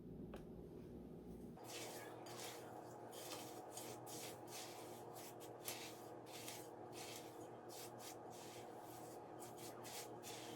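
Faint spoon stirring dry chow mein noodles through melted chocolate in a bowl: a quick, irregular run of scraping, rustling strokes, several a second, starting about a second and a half in.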